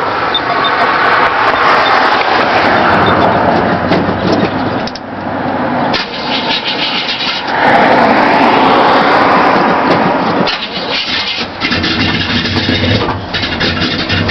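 1977 Chevy C10's 305 small-block V8 catching and sputtering on a cold start, surging louder twice and sagging in between as it struggles to keep running in the cold.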